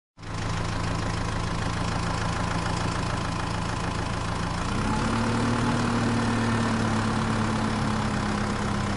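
Engine idling steadily at a low pitch; its pitch and level rise a little about five seconds in.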